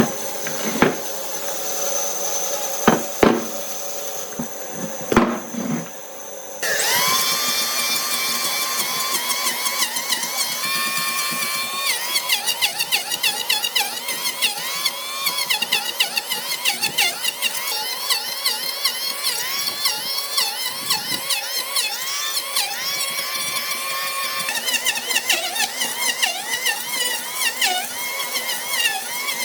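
A few knocks over a faint high whine, then about six and a half seconds in a power tool starts up and runs on woodwork, its pitch repeatedly dipping and recovering.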